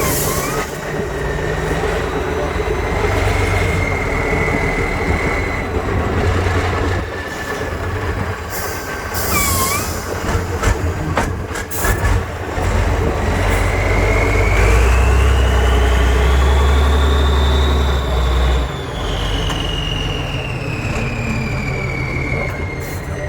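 Heavy 8x8 trial truck's engine working hard under load, its deep rumble heaviest in the middle stretch. A high whine climbs and then falls away over several seconds in the second half. A few sharp knocks come about ten to twelve seconds in.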